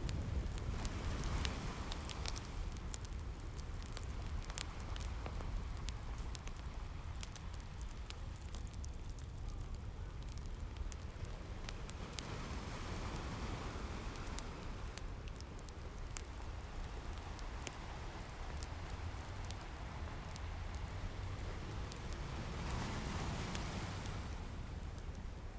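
Ocean waves washing in over a steady low rumble, a slow swell about every ten seconds, with a wood fire crackling in sharp scattered pops over it.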